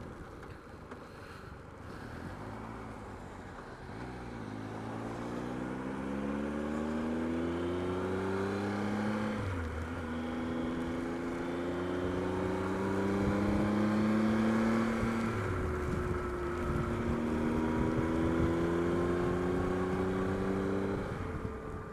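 Motorcycle engine heard through a microphone inside the rider's helmet, pulling through the gears: its pitch rises, drops at each of three gear changes about 4, 10 and 15 seconds in, and rises again, getting louder overall.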